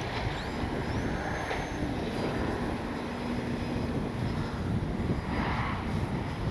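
Strong wind buffeting the microphone, with the faint high whine of an RC plane's electric motor under power; the whine rises about half a second in and then holds steady.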